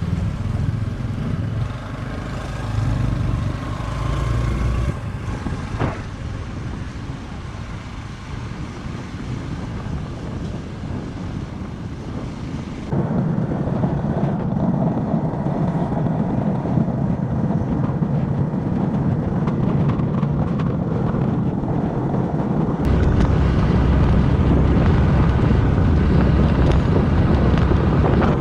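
Motorcycle running under way with wind buffeting the microphone. The sound jumps abruptly louder about halfway through and again near the end.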